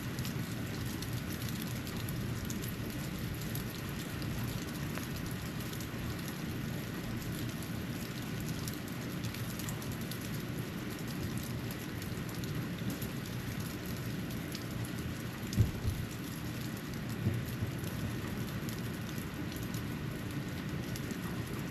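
Snow falling on a porch: a steady hiss with many light scattered ticks over a low steady rumble. A short knock comes about two-thirds of the way in, and a softer one a second or two later.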